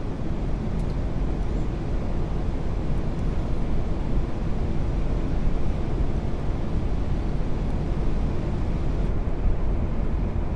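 Steady rushing noise on the flight deck of an Airbus A380 on final approach with flaps full: airflow and engine noise, low and even throughout.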